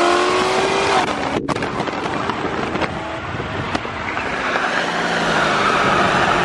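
Car V8 engines accelerating hard, their pitch rising through the first second. After a short break they give way to loud, steady engine and road noise, with an engine note that eases slightly near the end.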